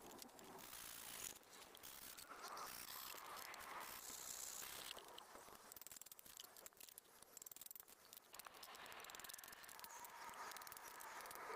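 Near silence: faint outdoor ambience with scattered soft clicks and ticks.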